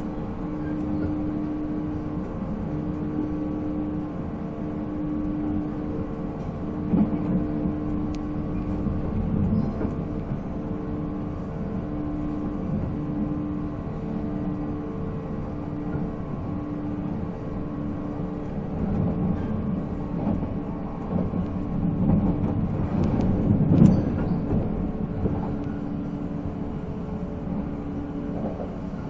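JNR 485-series electric train heard from inside the car while running, its MT54 traction motors whining at a steady pitch over a continuous rumble of wheels on rail. The pitch holds steady at cruising speed. The rumble and clatter swell louder a few seconds before the end.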